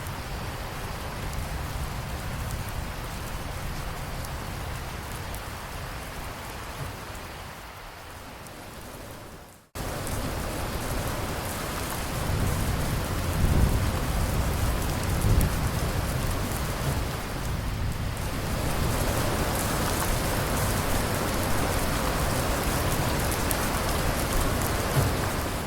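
Steady rain falling. About ten seconds in it fades out and cuts straight into heavier rain, with low rolls of thunder a few seconds later.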